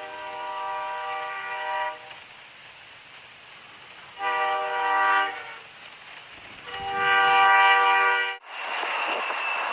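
Train air horn sounding a steady multi-tone chord in three blasts, the last the loudest. About a second before the end it cuts abruptly to a steady rushing noise from a train on the move.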